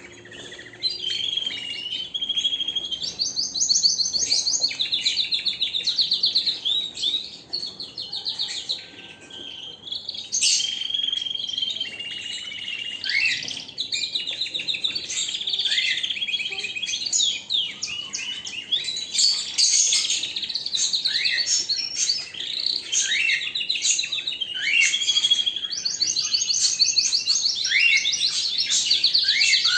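Domestic canary singing a long, unbroken song: fast rolling trills of rapidly repeated notes alternate with short sliding whistles, with no real pause.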